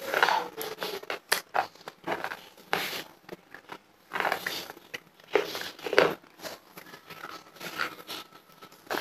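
Close-miked chewing of dry chalky clay: irregular sharp crunches and crackles, several a second, with short pauses between bites.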